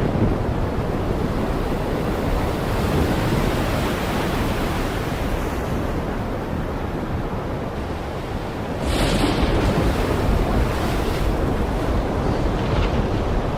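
Heavy rain pouring down as a dense, steady rush, growing louder about nine seconds in.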